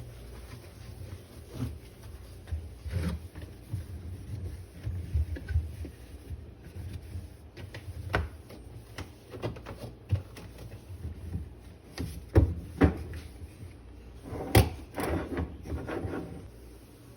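Irregular knocks, clicks and clatter of fridge drawers, shelves and containers being handled and moved during a fridge clean-out. The sharpest knocks come about twelve and fourteen and a half seconds in, the second followed by a brief rattle.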